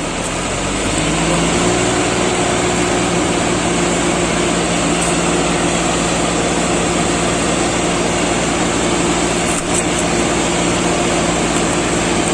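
Sugarcane harvester engine running, picking up speed and loudness over the first second or two and then holding a steady pitch under load.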